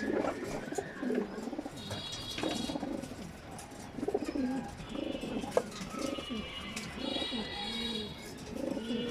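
Racing pigeons cooing, one low, rolling coo after another all through, with a few higher chirps mixed in.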